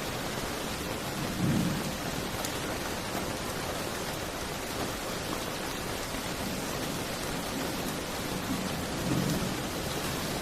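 Steady rain hissing, mixed with a wood fire crackling in a fireplace. Two short low rumbles rise above the rain, about a second and a half in and again near the end.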